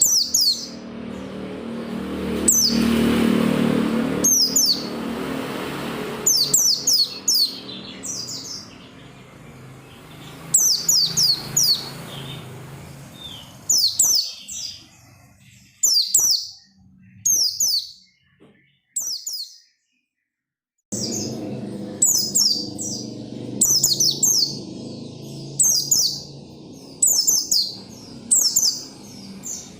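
White-eye (pleci) singing hard: quick clusters of high, thin, downward-sweeping chirps, repeated every second or two, broken by a brief dead silence about two-thirds of the way through.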